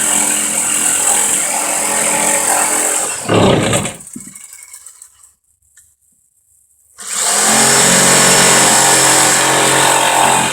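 Electric power saw running and cutting lumber, with a steady motor whine and hiss. It stops about three and a half seconds in, leaving near silence for about three seconds, then starts again and runs steadily.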